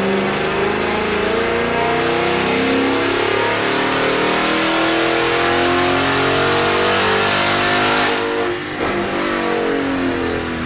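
2018-or-newer Ford Mustang GT's 5.0-litre Coyote V8 through its 100% stock exhaust, pulling at wide-open throttle on a chassis dyno, rising steadily in pitch. About eight seconds in the throttle closes and the engine drops back and winds down.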